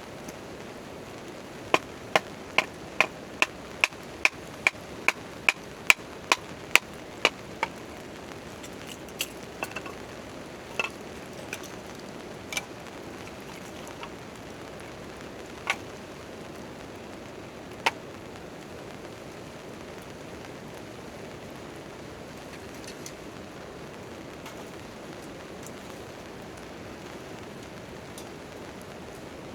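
Steady rain, with a quick run of about fifteen sharp knocks, roughly two and a half a second, starting a couple of seconds in, then a few scattered single knocks, the last about two thirds of the way through.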